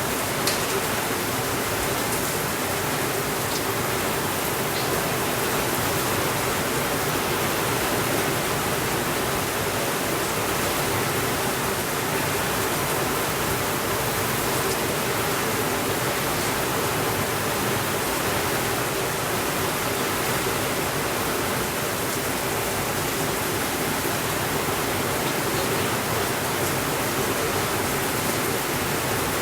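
Steady, even rainfall: a constant hiss of rain without thunder.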